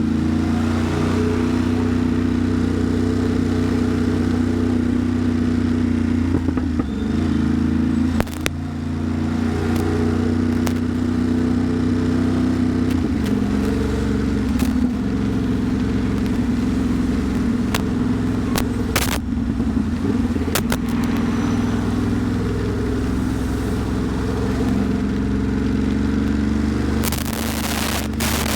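Ducati Monster's L-twin engine running at low, steady revs while filtering slowly between cars, its note shifting a few times. Scattered sharp ticks sound throughout, and a hiss rises near the end.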